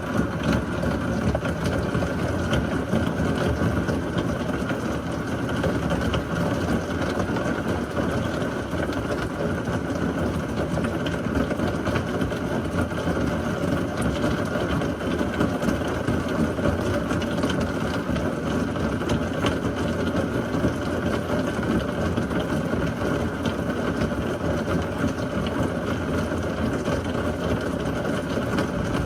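Heavy thunderstorm rain pouring steadily, a dense even rush with no thunder clap standing out.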